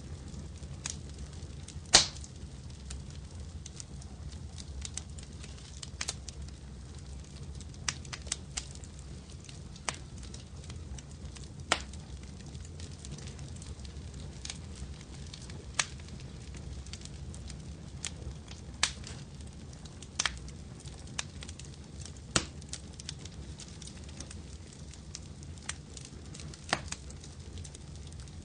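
Wood fire crackling: irregular sharp pops over a low, steady rumble, the loudest pop about two seconds in.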